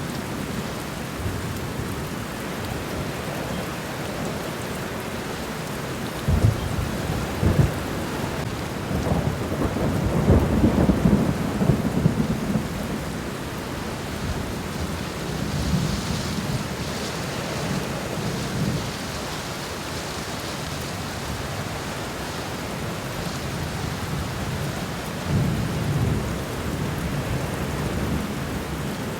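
Steady rain falling on the ground, with several low rumbles of thunder that swell and fade, the longest and loudest about ten seconds in.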